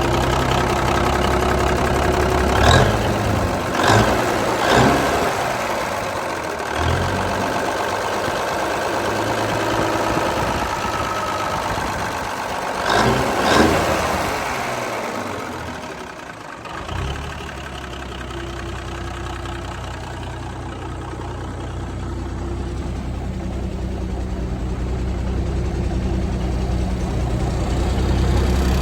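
Cummins diesel engine of a 1966 Peterbilt 288 truck running. Several sharp bangs come about 3, 4 and 5 seconds in and twice more around 13 seconds. Its low note fades briefly around 16 seconds, then comes back and runs steadily.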